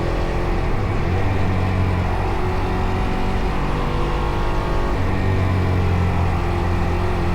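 Fantic Caballero Rally 500's single-cylinder four-stroke engine running under way on the road. The engine note holds fairly steady, with small changes in pitch about a second in and again about five seconds in.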